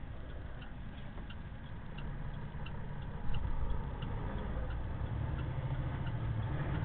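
Semi truck's engine running, heard inside the cab, with a turn-signal flasher ticking about every two-thirds of a second. The engine grows louder from about halfway, as the truck pulls away and revs up.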